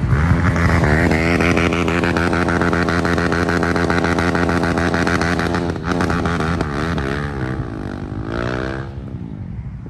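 Motorbike engine revving up about a second in and holding a high, steady pitch for several seconds. It then wavers, drops back down and fades near the end.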